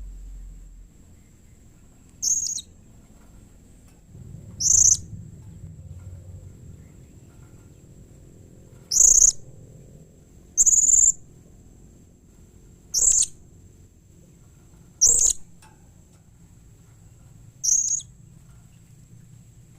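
Blue-crowned hanging parrot (serindit) giving seven short, shrill, high-pitched call notes, one every two to four seconds.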